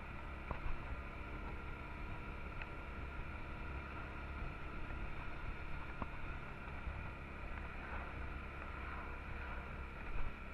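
Honda Transalp XL650's V-twin engine running steadily under way, mixed with wind and road noise over the microphone.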